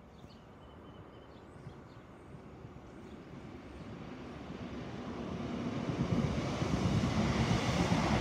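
A Class 156 Super Sprinter diesel multiple unit approaching on the line, its low rumble growing steadily louder over several seconds as it nears.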